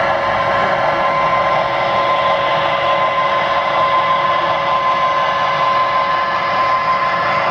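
Steam locomotive venting steam: a steady, unbroken hiss with a faint held tone running through it.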